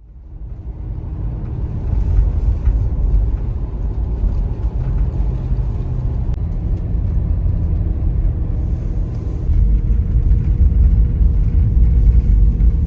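Motor vehicle running with a steady low rumble, fading in over the first couple of seconds.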